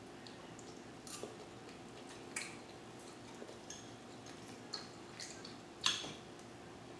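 Quiet eating sounds: scattered soft clicks and taps of cutlery on a plate, about seven in all, with a sharper one about six seconds in.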